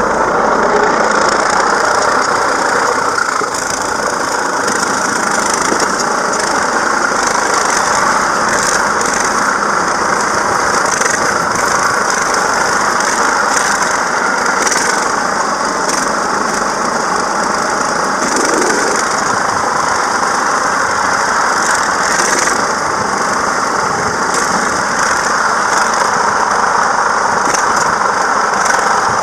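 Old John Deere 720 two-cylinder tractor engine running steadily while it pushes a hay wagon in reverse.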